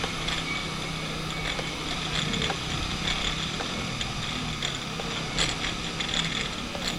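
Bicycle freewheel ratcheting with scattered ticks as the bike coasts, over a steady rush of road and wind noise.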